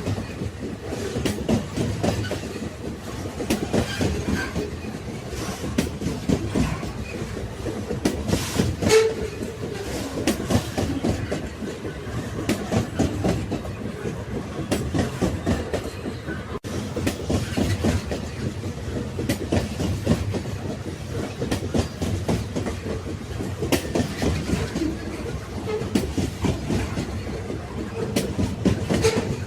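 Railway wagons rolling along the track: a steady rumble of wheels on rail with a clickety-clack of wheels over the rail joints and many short metallic clicks. There is a brief dropout about halfway through.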